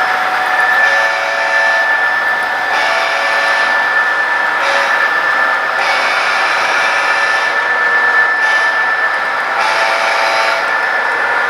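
Model train running on the layout: a steady high whine with the rush of wheels on the rails. Over it, a pitched sound of several tones comes and goes five or six times, each time lasting about one to two seconds.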